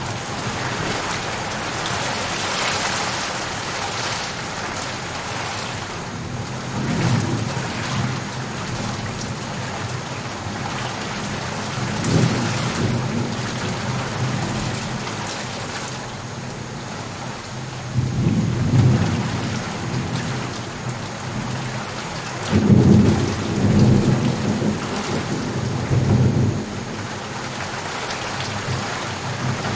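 Steady rain falling, with several low rolls of thunder that swell and fade over a few seconds each; the longest and loudest come in the second half.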